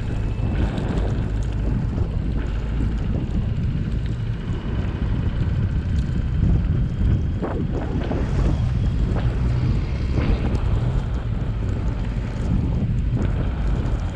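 Car driving through snow: a steady low rumble of engine and tyres under a hiss of wind, with a few short swishes over it.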